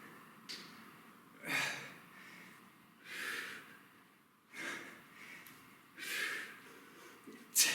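A man breathing hard under exertion during a kettlebell set, with sharp, noisy breaths about every second and a half. The loudest breath comes near the end.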